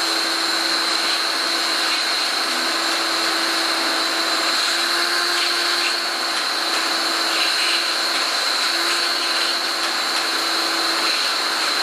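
A power tool running steadily and continuously, with an even hiss and a constant high whine.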